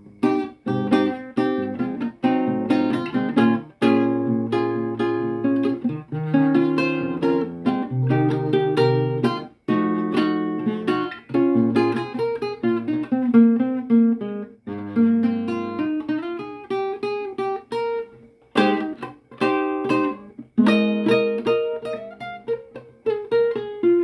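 Acoustic guitar improvising: chords strummed and plucked, each ringing and fading, with short breaks about ten and eighteen seconds in.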